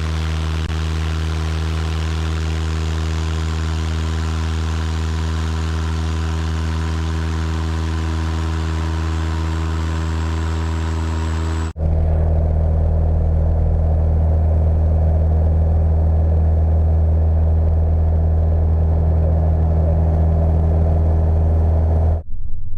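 Single-engine light airplane's piston engine and propeller running steadily. About twelve seconds in it switches abruptly to a louder, deeper-sounding run.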